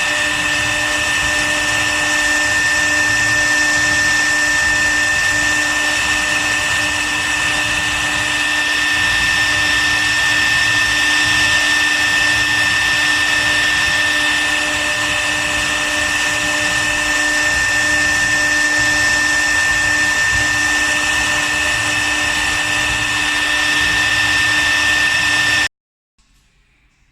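CNC wood router's spindle running steadily with a high whine, stopping abruptly near the end.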